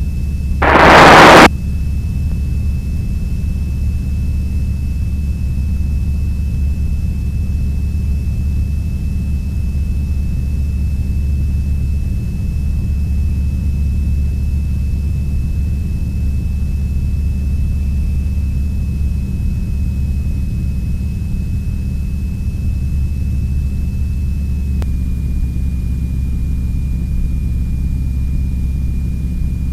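North American T-6 Texan's Pratt & Whitney R-1340 radial engine running steadily in the climb just after takeoff, a low drone with a thin steady whine above it. A brief loud burst comes about a second in, and the drone and whine shift slightly in pitch about 25 seconds in.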